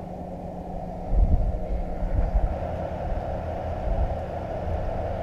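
An engine idling steady and low, with heavy low rumbles coming and going from about a second in.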